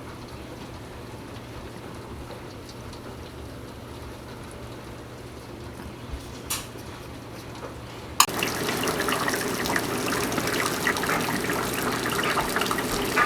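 Torrential rain with water spilling over overwhelmed house gutters. It is a muted steady hiss at first, then after a click about eight seconds in it turns much louder, with dense splashing and pouring.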